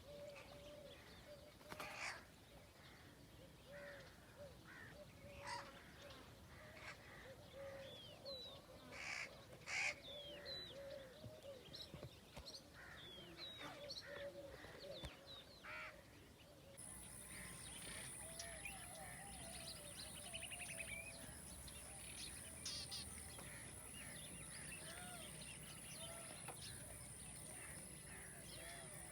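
Many birds chirping and calling, in short separate calls over a faint outdoor background, with a few caws among them. About halfway through the background gets louder and a steady high-pitched buzz joins the birds.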